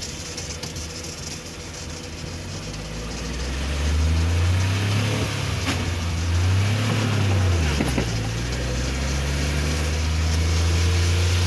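Car engine running, heard from inside the moving car: its low hum grows louder and rises in pitch about three seconds in, dips and climbs again past the middle, over a steady hiss of tyres on the rain-soaked road.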